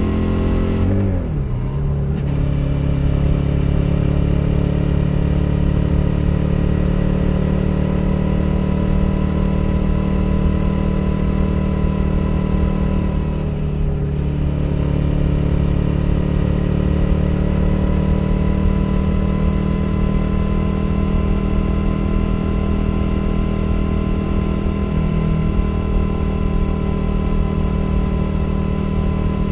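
2021 Suzuki SV 650's 645 cc V-twin engine running steadily at road speed, heard from under the seat. The throttle is briefly rolled off twice, about a second in and again around the middle, with a short dip in the engine note each time.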